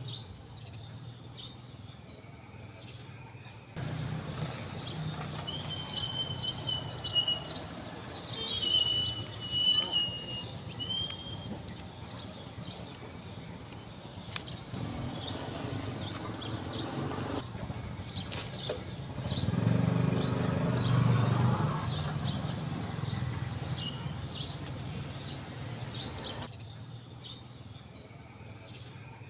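Outdoor background with small birds chirping, most busily in the first third. A low, pitched drone rises for a couple of seconds about two-thirds of the way in and is the loudest sound.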